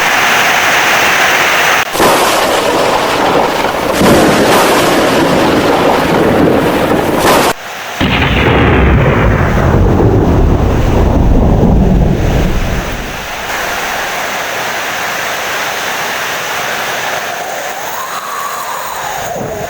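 Heavy rain with rolling thunder: a long, loud rumble of thunder through the first half, easing after about 13 seconds to a steadier, quieter rain hiss.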